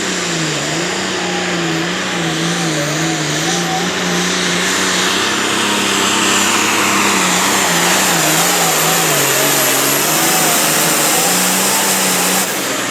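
Turbocharged diesel pulling tractor running at full power down the track, its engine note wavering up and down over a dense, loud exhaust and turbo noise with a thin high whine. The engine sound drops off suddenly near the end.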